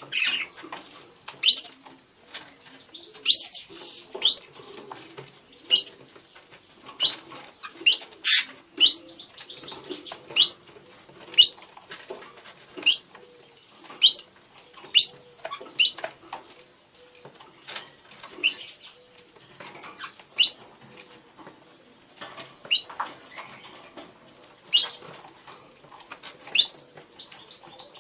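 Budgerigars calling to each other: a steady series of short, sharply rising chirps, about one a second.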